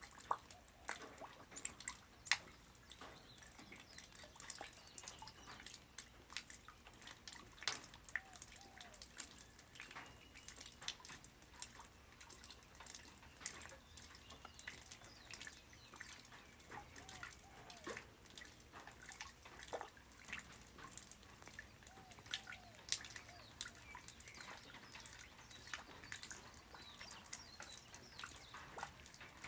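Light rain falling on the ground: a faint even wash of rain with many irregular, sharp drips and splashes of single drops.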